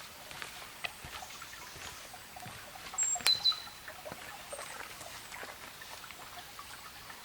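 Light crackling footsteps on the forest floor, with a small bird's high, thin call about three seconds in: a short high note dropping to a lower double note.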